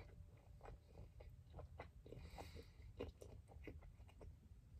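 Faint chewing of a mouthful of toasted roast beef sub with lettuce, heard as soft, irregular little crunches and clicks.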